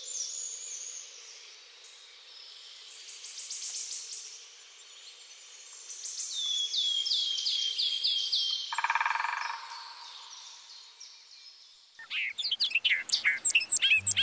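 Woodland birdsong: several small birds singing, one with a fast high trill and another with a run of repeated down-slurred notes. About twelve seconds in, louder and busier bird calls start abruptly.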